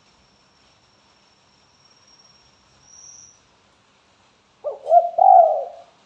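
Spotted dove cooing: one short phrase of three or four low, hooting notes near the end, used as a lure call to get other doves to answer. A faint steady high-pitched tone runs underneath for the first few seconds.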